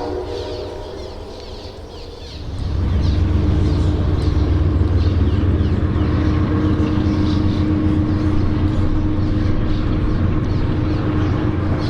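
Diesel locomotive running close by: a loud, steady low rumble with a steady hum, which comes up about two and a half seconds in. Birds chirp throughout.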